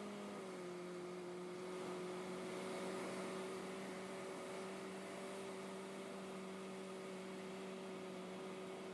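Cessna 150's four-cylinder Continental O-200 engine and propeller droning as a steady hum, stepping slightly down in pitch about half a second in as power is eased back, then holding steady.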